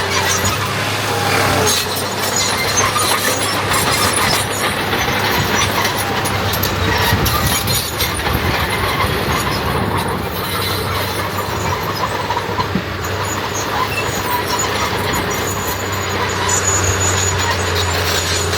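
Diesel engine of heavy earthmoving machinery running steadily, with scattered clanks and squeaks over it.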